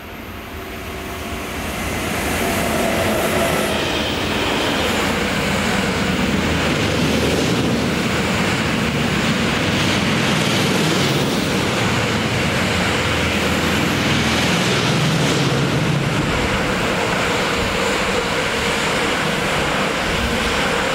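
Electric train passing close by: the wheel and rail noise swells over the first couple of seconds, then holds steady and loud.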